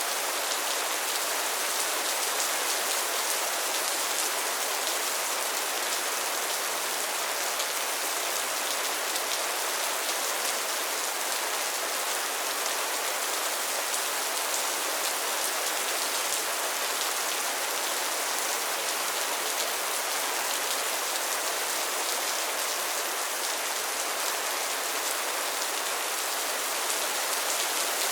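Steady rain falling on a pond and its lily pads, a dense even patter of drops on water and leaves.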